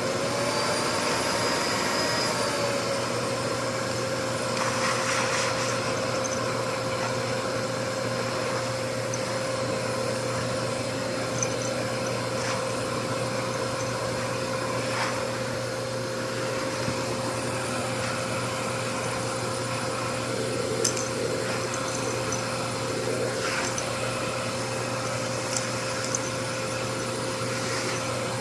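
Mitsubishi vacuum cleaner motor winding up to speed in the first couple of seconds, then running with a steady whine and airflow hiss, with a few light clicks.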